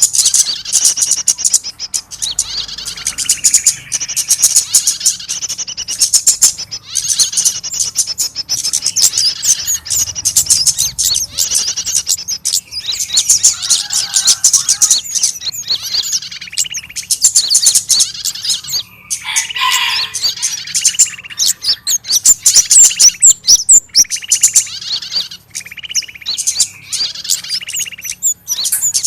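Bird-lure recording of small songbirds in a dense, unbroken chatter of rapid high chirps and repeated call notes. It is meant as the calls of a trapped bird, which draw other small birds in.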